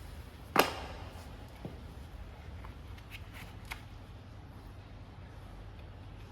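Hand tools being handled during a brake job: one sharp knock with a short ring about half a second in, then a few light clicks and taps, over a low steady hum.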